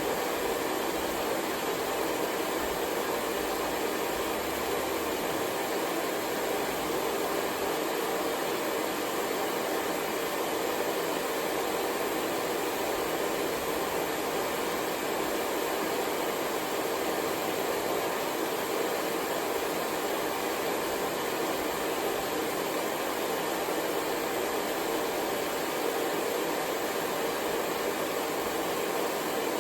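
Hair dryer blowing steadily, a constant whooshing hum that does not change.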